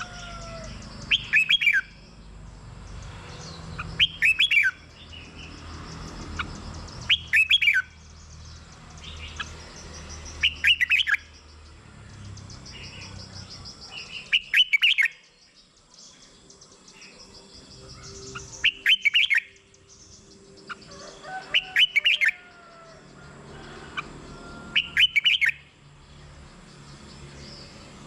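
Red-whiskered bulbul singing short bright phrases, repeated about every three seconds, with fainter chirps between them.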